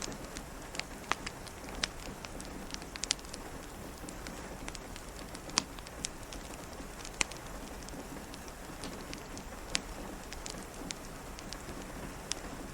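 Steady rain on a window, with irregular sharp pops and crackles from a wood fire in a fireplace; the two loudest pops come about five and a half and seven seconds in.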